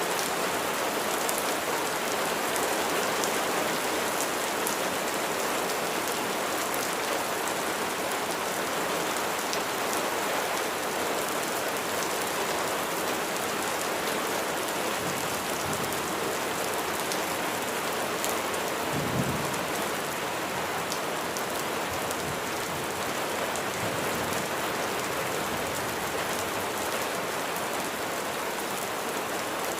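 Steady heavy rain falling on a surface, an even hiss full of fine drop ticks, with one brief low rumble about two-thirds of the way through.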